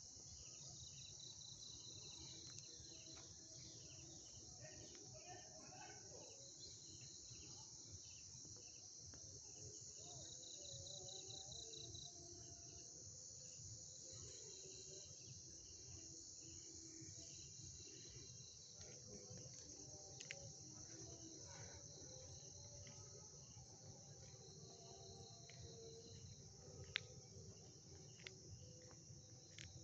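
Faint night chorus of crickets trilling steadily, with another insect's pulsed trills coming in short bouts. A few sharp clicks come in the second half.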